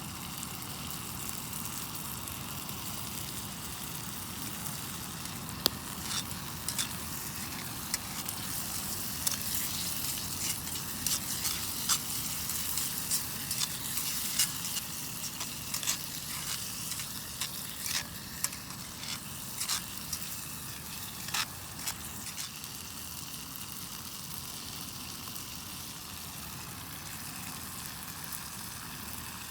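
Food sizzling steadily in a frying pan over a campfire. Scattered sharp clicks and taps run from about six seconds in to about twenty-two seconds in.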